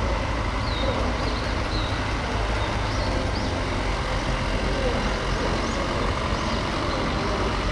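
Large police trucks and buses driving slowly past in a column, a steady rumble of diesel engines and road noise, with a few faint high chirps over it.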